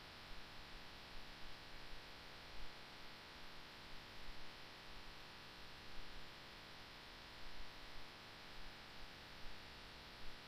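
Quiet steady hiss and hum, with a few faint, short soft sounds scattered through it.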